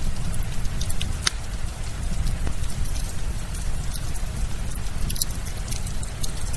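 Firewood crackling with frequent sharp pops and snaps over a steady rush of rain.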